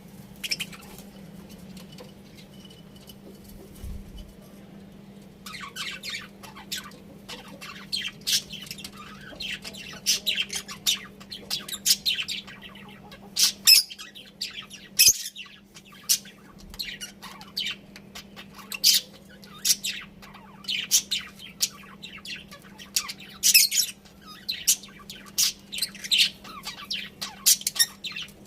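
Budgerigars chirping and squawking, many short sharp calls overlapping, beginning about five seconds in and growing busier, over a steady low hum.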